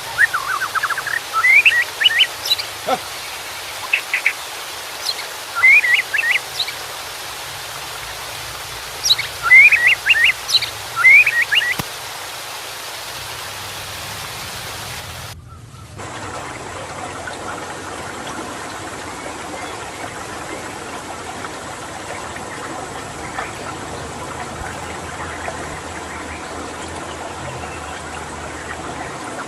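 White-rumped shama (murai batu) giving bursts of short, sharp chirping notes over a steady rush of running water. About halfway through, the audio cuts abruptly to running water alone.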